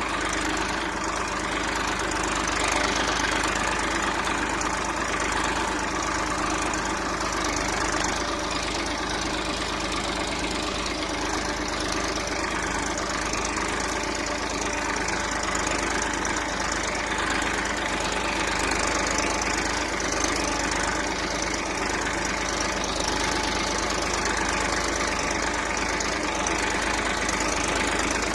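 Massey Ferguson 241 DI tractor's diesel engine running steadily, with no change in speed.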